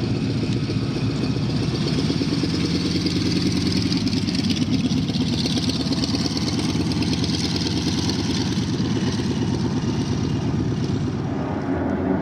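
Piston-engine propeller airplane running steadily with a low, throbbing engine note, and a hiss that swells in the middle and fades near the end as it passes.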